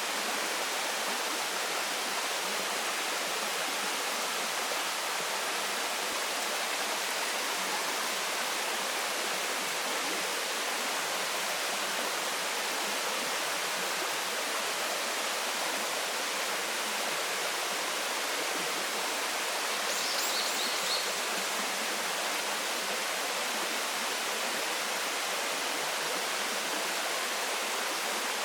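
Waterfall water falling and splashing in a steady, even rush. About two-thirds of the way through, a brief run of high chirps sounds over it.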